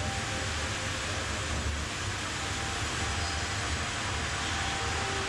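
Steady machinery noise from a running Ake bandsaw line: a low hum under an even hiss, unchanging throughout.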